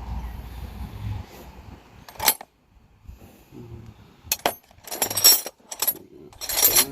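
Hand tools clinking and clanking against metal in a few short, sharp strikes as seized, never-replaced strut bolts are worked loose. Low wind rumble on the microphone in the first second.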